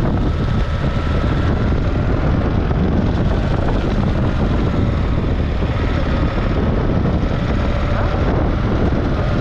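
A motorcycle on the move, heard on the rider's own microphone: a steady engine drone under a constant rush of wind.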